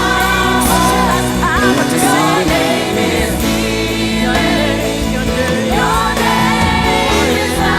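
Live Christian worship music: a band playing held chords under lead and backing vocalists singing.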